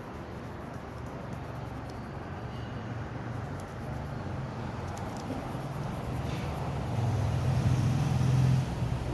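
A steady low rumble, swelling louder about seven seconds in and dropping back just before the end.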